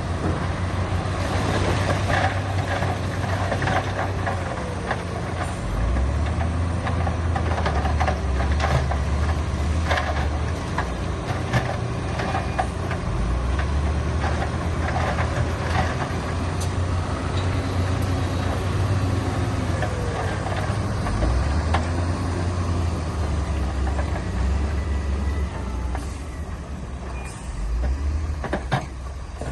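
Heavy diesel earth-moving machinery at work: a deep engine running, its pitch stepping up and down a few times, with scattered knocks and clatter throughout.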